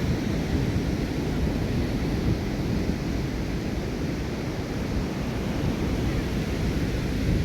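Wind buffeting the microphone in a steady, gusty rumble, over the wash of ocean surf on the beach.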